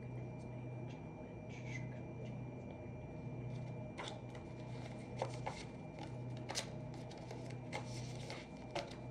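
Irregular light clicks and taps from desk work, over a steady low hum.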